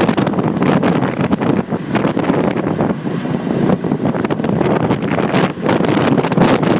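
Wind buffeting a motorcycle-mounted phone's microphone while riding: a loud, steady, fluttering rush, with the motorcycle and road noise beneath it.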